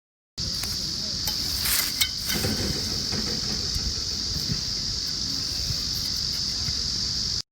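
Firewood fire burning in a mesh fire stand, crackling, with a cluster of sharp pops between about one and two seconds in, over a steady high hiss.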